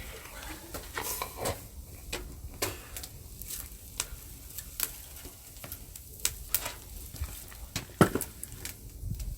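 Wood fire crackling: burning split firewood giving off irregular sharp pops and snaps over a low hiss, the loudest pop about eight seconds in.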